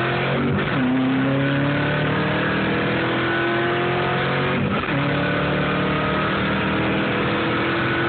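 1995 Ford Mustang 5.0 V8 heard from inside the cabin, accelerating through the gears. The engine note climbs steadily and drops at a gear change about half a second in, climbs again, and drops at a second shift near five seconds.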